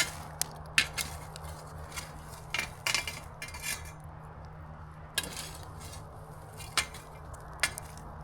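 Metal cooking utensils clinking and tapping against a campfire grill grate in a string of irregular sharp clinks, the loudest at the start and about a second in.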